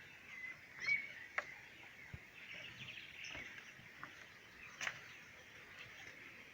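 Faint outdoor ambience with a few short, high bird chirps in the first second and scattered soft clicks.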